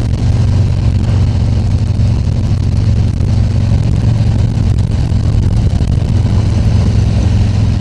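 Harley-Davidson Tri Glide Ultra trike's V-twin engine running with a steady, low note.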